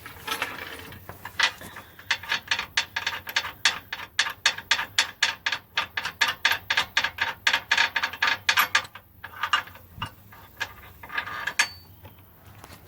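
Hand socket ratchet clicking in quick, even strokes, about five clicks a second for several seconds, as a nut is backed off; a few scattered clicks and knocks follow near the end.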